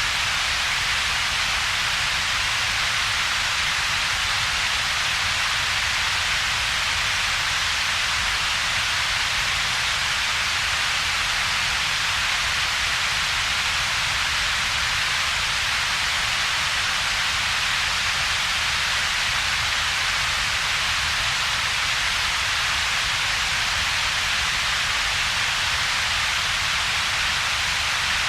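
Synthetic double-peaked noise, a steady hiss with most of its energy in a band high in the mid-range and a second, weaker band of low rumble, with a gap between them. It does not change at all.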